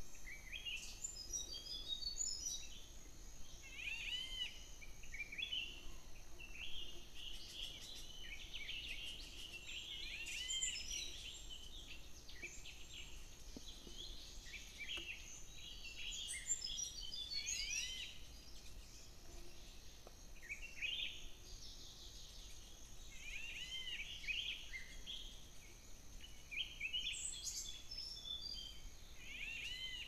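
Small birds chirping and calling: clusters of short, high, arched notes every few seconds over a faint steady background.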